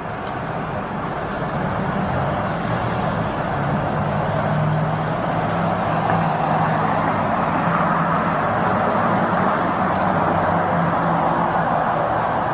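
Steady road traffic noise with a vehicle engine hum, swelling slightly and easing off, as of traffic passing.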